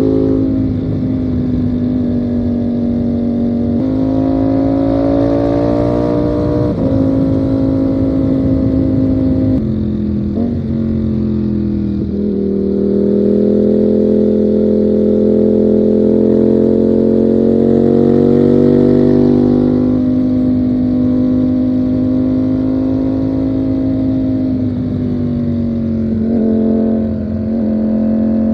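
Ducati Panigale V4's V4 engine running under way at moderate, fairly steady revs, its note dipping and rising in pitch a few times as the throttle changes.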